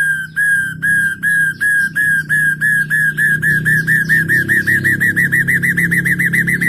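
Hill myna (beo) whistling one short note over and over, the repeats speeding up from about three a second to about six a second.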